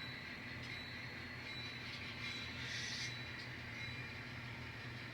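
N scale model train locomotives running on the layout, pulling a cut of scrap cars: a steady low hum with a thin high whine, and a brief hiss near the middle.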